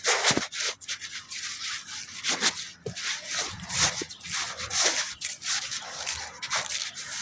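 Irregular rustling and rubbing noise in uneven bursts, mostly hissy and bright, with a few soft low thumps.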